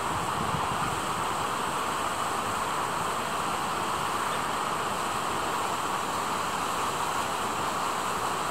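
Steady outdoor rushing noise with no distinct calls or knocks.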